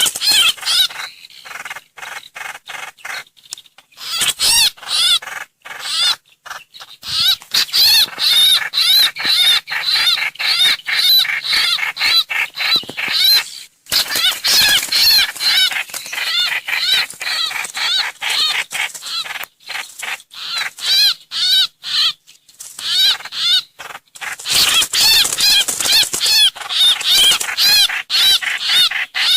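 Song of the bird called trao trảo or hoành hoạch, played as a trapping lure call. It is a fast run of short, arched, whistled notes repeated over and over, in bursts broken by brief pauses.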